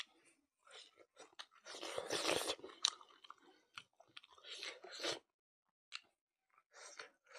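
Close-up chewing of a mouthful of leafy greens and mutton curry, with wet crunching and smacking in irregular bursts, loudest about two seconds in.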